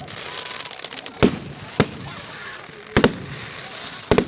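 Fireworks going off: a run of sharp bangs, about five in all, the last two close together near the end, over a steady crackling hiss.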